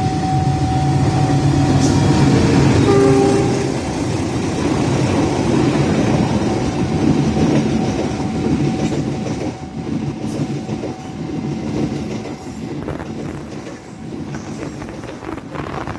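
KAI CC206 diesel-electric locomotive passing close by at the head of a passenger train. Its engine runs loud and its horn sounds in the first few seconds. Then the passenger coaches roll past with wheel clatter, the sound slowly fading.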